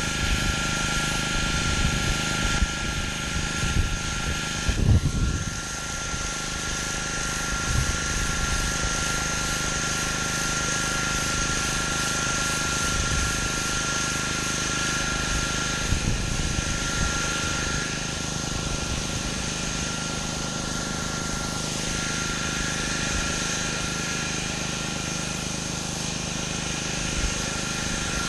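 Pressure washer running steadily, its engine and pump holding a constant drone and whine while the high-pressure spray hisses on concrete.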